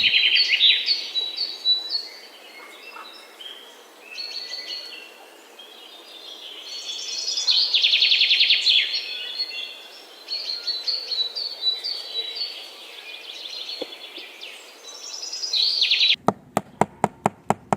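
Many birds chirping and trilling together in a dense chorus that swells and fades in waves. Near the end come about seven sharp clicks in quick succession, about five a second.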